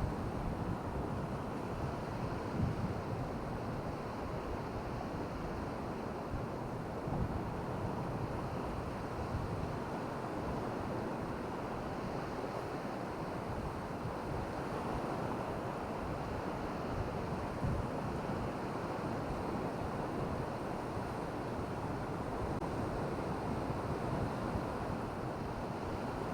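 Surf washing steadily on a beach, with wind rumbling on the microphone.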